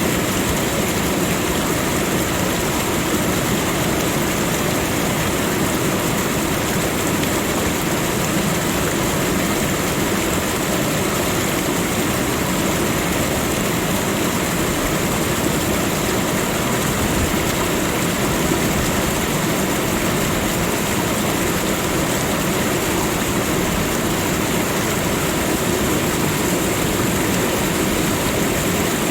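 Waterfall: falling water making a steady, unchanging rush.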